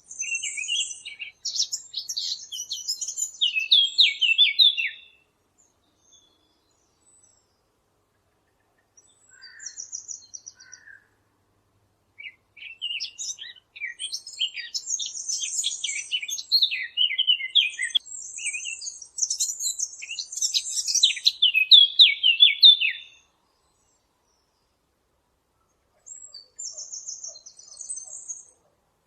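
A Sylvia warbler (the 'fig bird' of Arab bird hunters) singing long, fast, varied warbling phrases. There is one of about five seconds at the start and a longer one of about ten seconds in the middle, with short snatches between and silent gaps.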